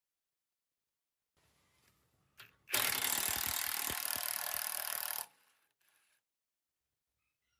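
A power tool runs in one loud burst of about two and a half seconds with a fast rattling pulse, starting a little under three seconds in, after a brief shorter blip.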